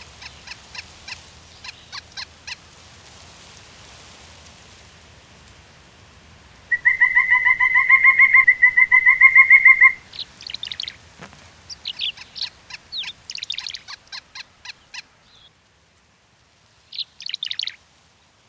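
Pileated woodpecker calling: a loud, rapid series of even notes lasting about three seconds. Shorter, higher chirps come before and after it.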